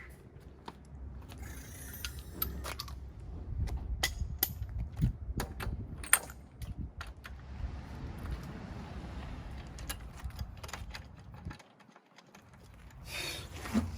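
Scattered sharp metallic clicks and clinks of hand work on a truck wheel, over a low rumble, with a soft hiss in the middle.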